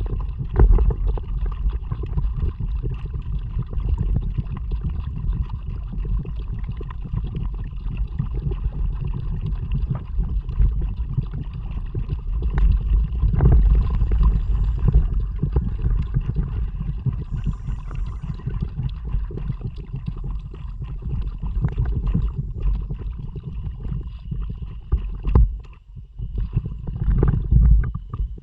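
A kayak being paddled, with water splashing and gurgling against the hull and paddle over a steady low rumble.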